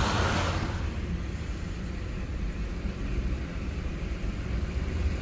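Car driving through floodwater, heard from inside the cabin: a rushing hiss of water thrown up by the tyres dies away within the first second, leaving a steady low rumble of the car's tyres and engine.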